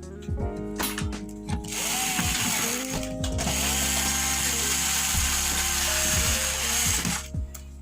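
Power screwdriver running with ratcheting clicks for several seconds, over background music with steady held notes.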